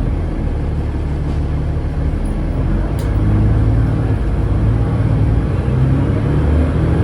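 Cummins ISLe straight-six diesel engine of an Alexander Dennis Enviro500 double-decker bus running under load, its low rumble growing louder about three seconds in as the bus accelerates.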